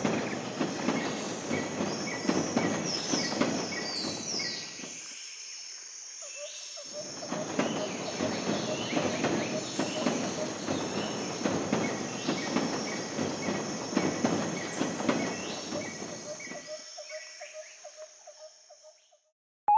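A train running on rails, with rattling wheel clicks. The sound drops away about five seconds in and comes back about two seconds later with a steady whine, then fades out near the end. A steady high hiss like insects runs above it.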